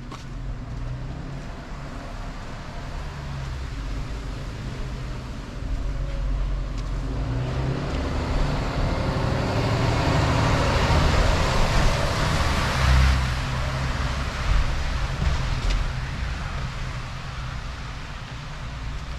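A road vehicle passing close by on a city street, its tyre and engine noise swelling to a peak about two thirds of the way through and then fading, over a steady low traffic rumble.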